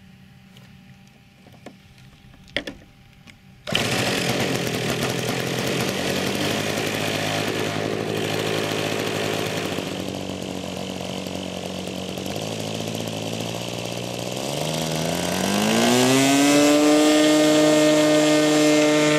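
A couple of clicks, then the RC model airplane's engine starts abruptly and runs at low throttle. Near the end it revs up smoothly to a higher, steady pitch.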